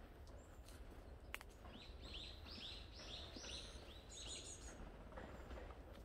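A songbird singing a run of about nine quick, evenly repeated chirping notes, about three a second, with a single sharp click just before it starts.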